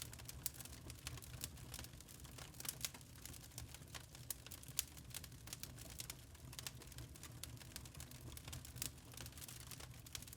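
Wood fire in a fireplace crackling: irregular small snaps and pops, several a second, over a low steady rumble of the burning logs.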